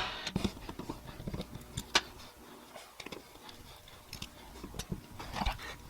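Scattered light clicks and taps of a screwdriver and small metal parts on a motorcycle carburetor as its float bowl screws are worked loose, with one sharper click about two seconds in.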